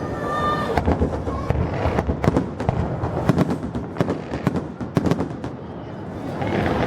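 Fireworks going off in a rapid series of sharp bangs and crackles, thinning out about five seconds in.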